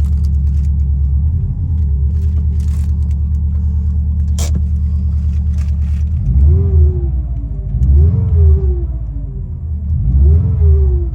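Subaru EJ205 turbocharged flat-four engine idling steadily, then blipped three times in the second half, each rev rising and falling back to idle, with one sharp click in the middle. The engine is being run to trace an unidentified abnormal engine noise.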